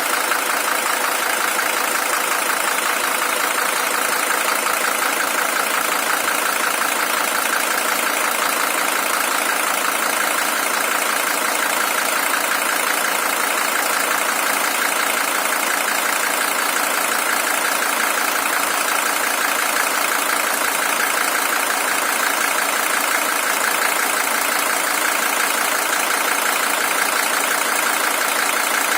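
Mercedes-Benz W123 300TD's OM617 five-cylinder diesel engine idling steadily; it is the original engine, at 620,000 km.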